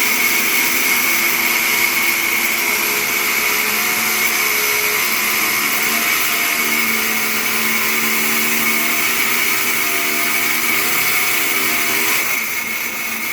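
Sawmill saw running through a mahogany log with a loud, steady high whine; the whine eases about a second before the end.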